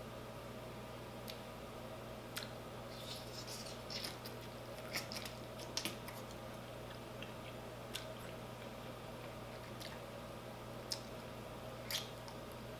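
Close-up mouth sounds of a person eating hot chicken wings: scattered wet smacks, clicks and biting noises, busiest in the middle, over a steady low hum.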